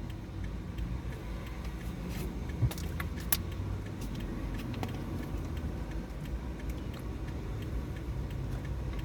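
Car interior road and engine noise while driving: a steady low rumble, with a few sharp clicks or rattles about three seconds in.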